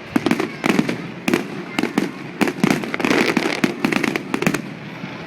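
Many fireworks going off at once: a rapid, irregular run of sharp bangs and crackles, thickest about a second in and again around three to four and a half seconds in.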